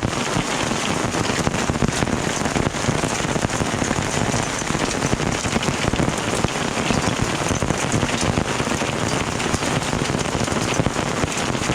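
Heavy rain falling steadily: a dense, even hiss of countless drop hits with no letup.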